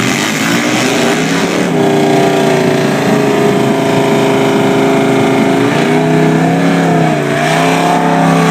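Drag racing engines from a Triumph motorcycle and a Plymouth coupe gasser at full throttle down the strip. A rough launch settles into a loud, steady engine note that dips and climbs again about three-quarters of the way through, as at a gear change.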